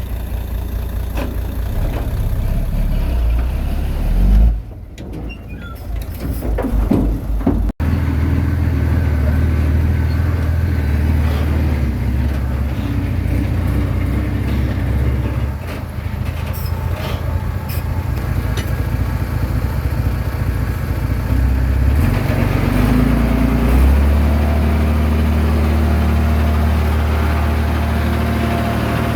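Diesel engine of a Komatsu D21A bulldozer running under work, its note shifting several times. About a quarter of the way in the sound briefly drops away and then cuts off sharply before the engine resumes.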